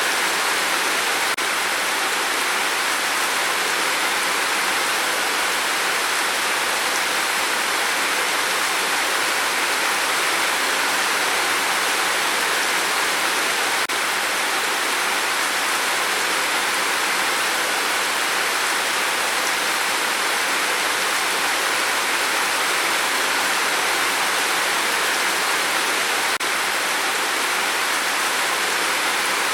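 Rain falling on a tin roof: a steady, even hiss that does not let up.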